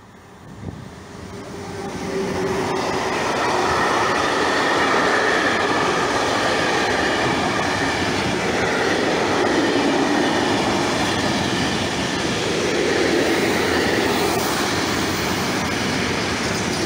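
Freight train of hopper and tank wagons passing close by, its wheels rumbling and clattering along the rails. The sound builds quickly over the first two to three seconds as the locomotive arrives, then stays loud and steady as the wagons go by.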